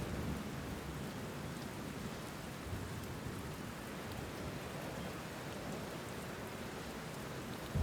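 Steady rainfall, an even hiss of rain falling on surfaces. A low rumble of thunder starts right at the very end.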